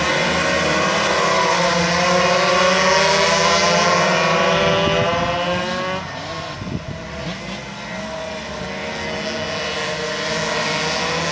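Several racing minibike engines running hard, their pitches rising and falling as the riders work the throttles. The sound drops away about six seconds in and builds again near the end.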